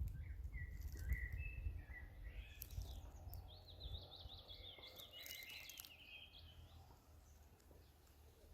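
Small songbirds chirping and singing: a few short whistled calls in the first two seconds, then a rapid trill from about three to six seconds in, over a low rumble that fades toward the end.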